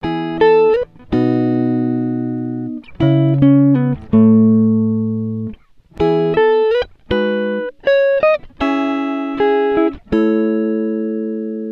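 Guitar music: slow phrases of plucked notes that ring and fade, some sliding up into pitch, with short pauses between phrases.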